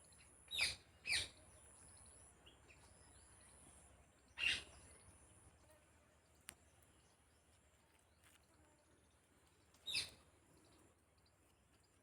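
A bird giving short, sharp calls: two in quick succession near the start, another about four seconds in, and one more near the end, over a faint outdoor background.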